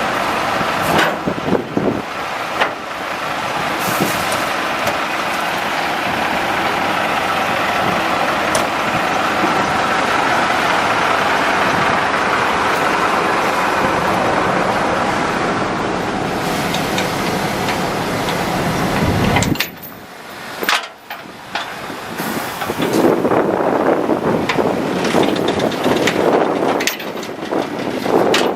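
International DT466E diesel in a dump truck, running with a steady rushing engine and road noise. The sound drops suddenly about two-thirds of the way through, then comes back in an uneven, fluctuating way.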